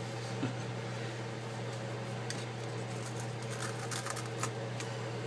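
Steady low hum under faint, scattered small clicks and scrapes of hand work on the opened iPad's parts and glue.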